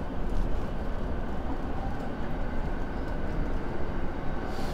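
JR East E231-series commuter train pulling out of a station, heard from inside the carriage: a steady low rumble of wheels and running gear.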